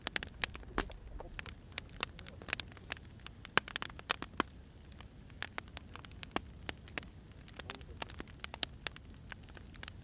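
Wood fire burning, with irregular sharp crackles and occasional louder pops over a low steady rumble.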